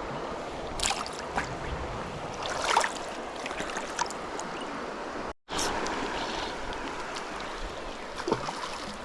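River water rushing steadily over a stony bed, with a few short splashes about a second in and again near three seconds. The sound drops out completely for a moment just after halfway.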